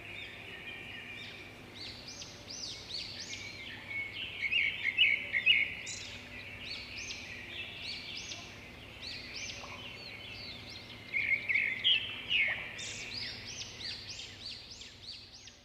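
Several birds chirping and calling together: many short, overlapping high chirps and quick sweeping notes, with louder bursts of chirping about five seconds in and again around twelve seconds.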